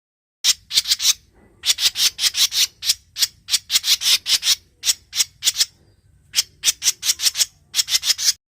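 Cucak jenggot mini bird giving harsh, rasping chattering calls: quick runs of short scratchy notes, about five a second, in bursts with brief pauses between them. The calls start about half a second in and cut off suddenly near the end.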